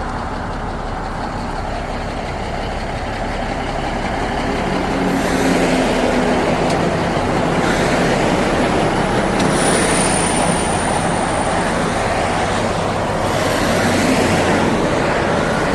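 Heavy truck engine running amid road traffic noise, growing louder about five seconds in.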